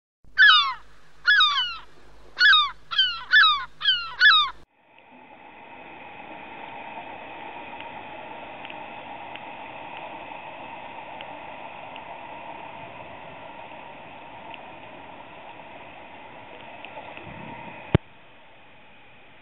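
Six loud bird calls, each falling in pitch, in quick succession. Then a steady hiss and hum with a faint high whine, ending in a sharp click.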